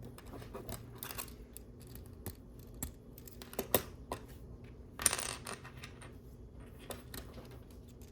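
Small plastic LEGO pieces being handled and snapped into place: scattered sharp clicks, with a brief clatter of loose pieces about five seconds in.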